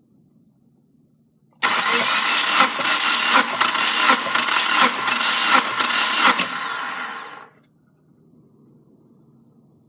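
Subaru FA20DIT 2.0 L turbocharged flat-four engine starting abruptly about one and a half seconds in, running loud for about five seconds with a regular beat of sharp peaks, then shut off and dying away over about a second, as a bench test of the engine.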